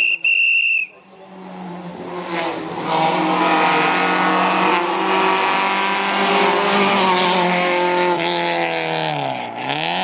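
Rally car engine at full throttle, loud and building for several seconds as the car comes through; near the end the revs drop sharply and climb again. A brief high steady tone sounds at the very start.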